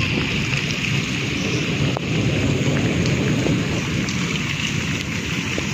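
Heavy rain pouring steadily, a dense even hiss with strong low patter.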